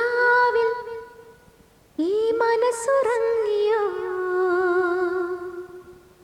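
A woman's voice singing two long wordless held notes as a song's opening, the first sliding up into the note and fading, the second wavering with vibrato and stepping down before it fades.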